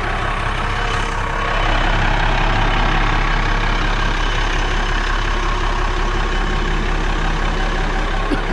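Monaco Signature motorhome's diesel engine idling steadily while it airs up and warms up. It gets a little louder about a second and a half in.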